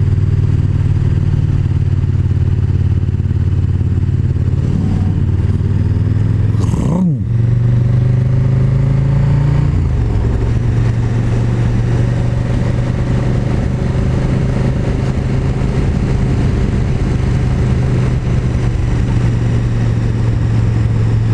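KTM 1290 Super Duke GT's V-twin engine running steadily under way; the engine note drops and picks up again about seven seconds in, then settles slightly lower near ten seconds in.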